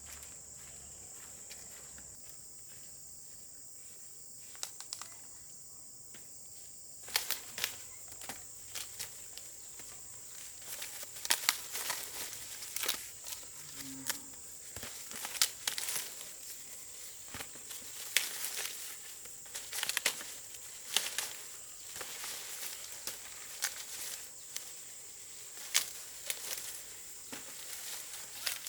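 Dry plant material rustling and crackling in irregular sharp snaps, starting about seven seconds in, over a steady high-pitched hum.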